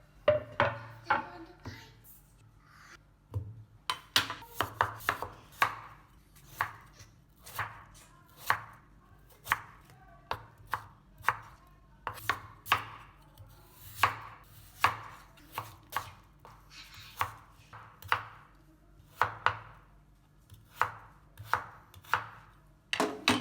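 Knife chopping on a cutting board: a long run of sharp, uneven chops, about one or two a second, sometimes in quick clusters, with short pauses between.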